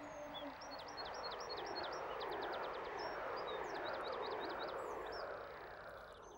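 Small birds chirping in quick runs of short, high notes over a steady rushing hiss that swells through the middle and fades near the end.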